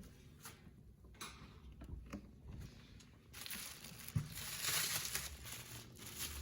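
Faint handling noises: a few light knocks, then about three seconds of rustling and scraping with a sharper knock in the middle.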